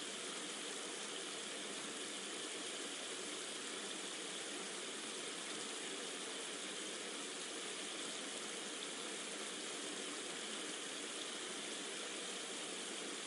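Steady, even rushing of rain and running water, with no single drops or other events standing out.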